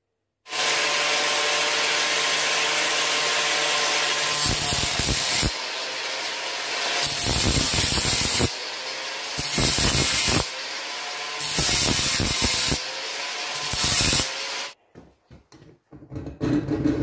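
Electric grinder running and grinding a steel blade, in passes that grow louder and harsher every second or two as the blade is pressed to it. It starts suddenly and cuts off near the end.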